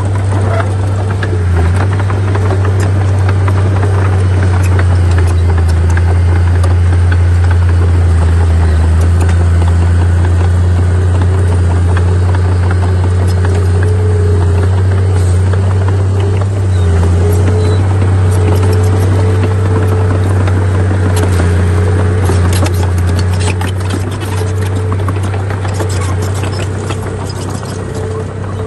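Heavy earthmoving machinery's diesel engine running steadily with a deep hum and a wavering higher whine. Scattered rattling clicks come in during the last few seconds.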